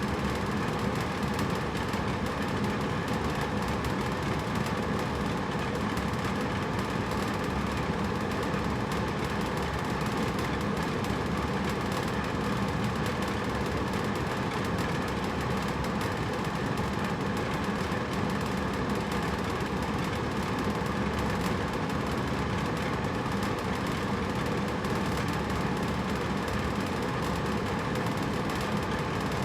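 Hotel room air conditioner running: a steady fan noise with a low hum underneath.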